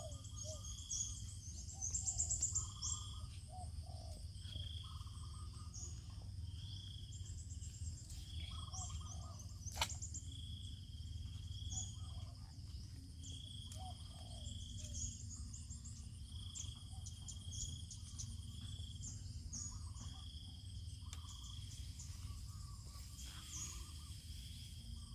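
Several birds calling and singing, with one short high steady note repeated every second or two and quick chirps over it, above a steady low rumble. A single sharp click sounds about ten seconds in.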